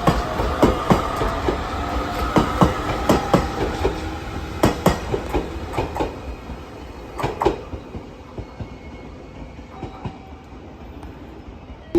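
Train running over the rails, wheels clacking at rail joints over a steady rumble and a faint whine; the clacks thin out and the sound fades over the last few seconds.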